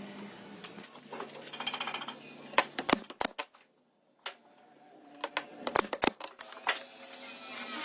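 Workshop handling sounds: irregular sharp clicks and knocks of tools and wood, with a short rasping buzz about one and a half seconds in and a brief drop to near silence just before the middle.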